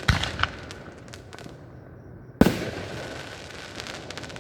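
Fireworks shells bursting: a loud bang just after the start followed by a few crackling pops, then a second loud bang about halfway through, each with a long fading rumble.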